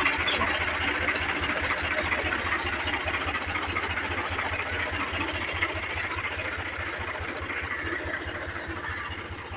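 Al-Ghazi diesel tractor engine running steadily with a fast, even low beat. It fades slightly toward the end.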